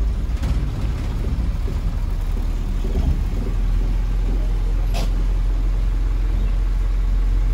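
Safari vehicle's engine idling with a steady low rumble, heard from inside the vehicle; a sharp click about five seconds in.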